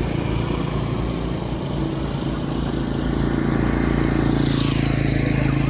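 An engine running steadily at an even speed. About four seconds in, a higher hiss sweeps downward over it.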